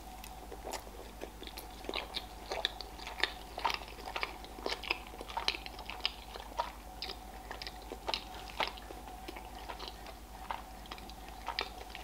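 A person chewing sushi rolls close to the microphone: a steady run of small, irregular mouth clicks and smacks.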